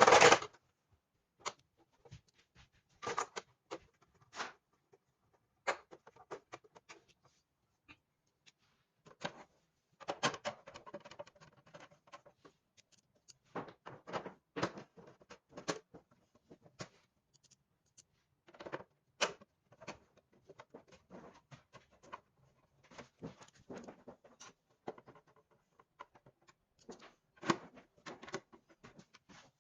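Irregular clicks, knocks and scrapes of metal and plastic parts and tools being handled during work on an exercise bike's belt and pulley, with a sharp knock at the very start.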